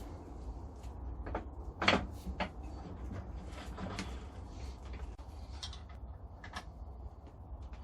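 Metal grinder parts and hand tools clinking and knocking as the grinder is assembled by hand, with a sharp knock about two seconds in. A steady low hum runs underneath.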